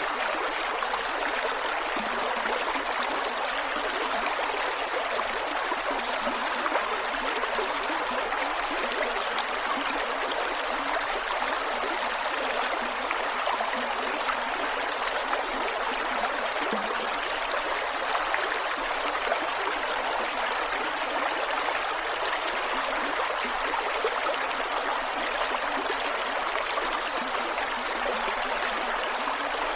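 Creek water flowing over rocks: a steady rush with gurgling and trickling.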